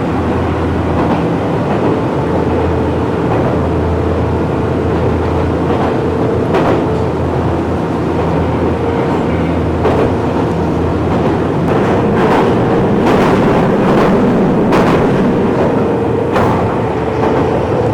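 KiHa 40-series diesel railcar running, a steady engine drone with sharp clicks from the wheels passing rail joints through the second half.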